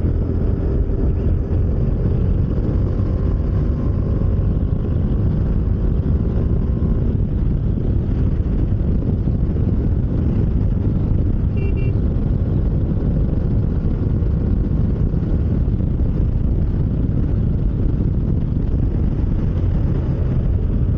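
Motorcycle riding at highway speed: steady wind rush on the helmet-mounted microphone over the engine's hum. A brief vehicle horn beep sounds about twelve seconds in.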